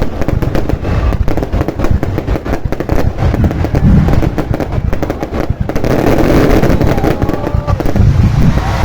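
Fireworks going off in a continuous dense barrage of rapid bangs and crackles, with deeper booms now and then.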